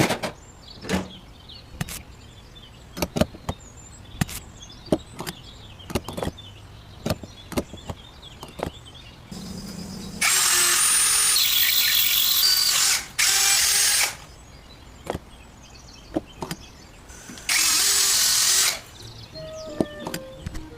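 A small electric drill or similar hand power tool runs at full speed for about four seconds with a brief break, then again for about a second, with a high whine. Sharp taps and clicks of small parts being handled come before and between the runs.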